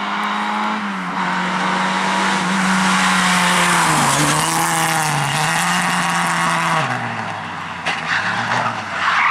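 A rally car's engine is run hard at high revs, with tyres skidding. The revs dip briefly twice about halfway through and fall away near the end as the driver lifts off.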